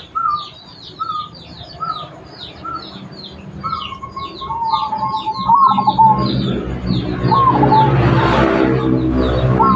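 Zebra doves (perkutut) cooing in short, clear whistled notes, repeated over dense high twittering of small birds. About six seconds in, a louder low steady drone joins.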